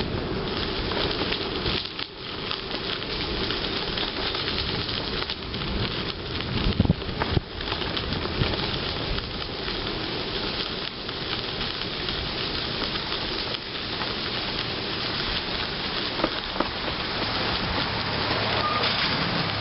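Continuous crackling rolling noise from a bicycle riding along a gravel canal towpath, mixed with wind on the microphone. There are a few louder knocks about seven seconds in.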